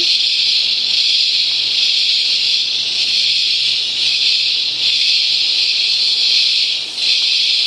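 A chorus of rainforest cicadas: a loud, steady, shrill buzz that dips briefly near the end.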